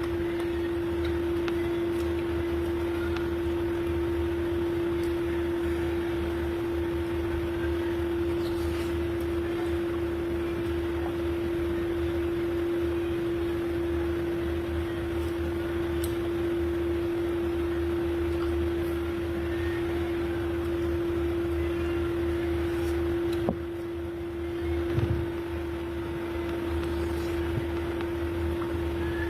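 Steady machine hum with one constant pitched tone over a low drone. About 23 seconds in there is a click and the hum drops a little, and a short knock follows a second or so later.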